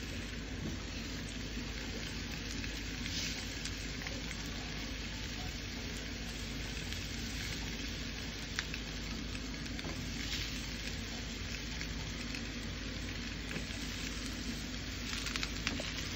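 Banana peels frying in avocado oil on a hot electric griddle: a steady sizzle with a few sharp pops.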